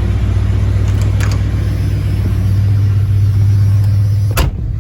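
Carbureted 7.5L 460 V8 of a 1987 Ford Econoline E350 running under way, a steady low rumble that swells from about halfway through. A single sharp click comes near the end, and the rumble drops after it.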